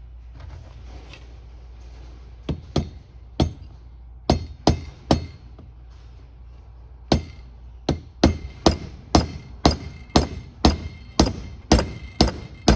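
Hammer with a plastic and rubber face tapping on an aluminum Quick Fuel carburetor to loosen a part: a few scattered taps, then after a short pause a steady run of about two taps a second.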